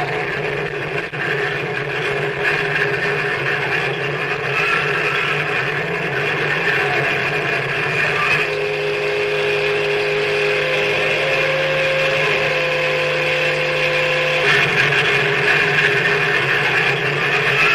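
Harsh noise music: a dense, steady wall of hiss and drone over a low hum. A pair of held tones joins about eight seconds in and drops out about six seconds later.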